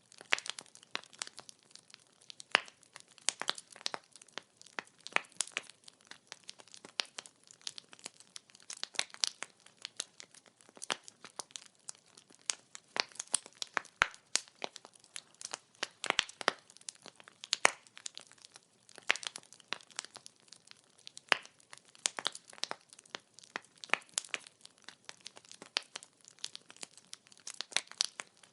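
Burning firewood crackling, with many irregular sharp pops and snaps, several a second, over a faint hiss.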